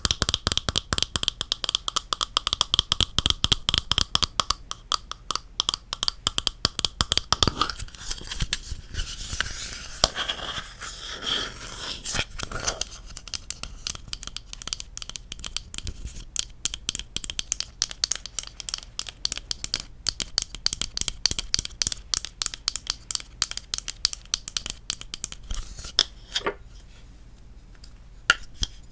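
Fast, dense tapping and scratching on wooden objects, many quick clicks a second. A faint ringing tone sits under the first several seconds, and the tapping thins out near the end.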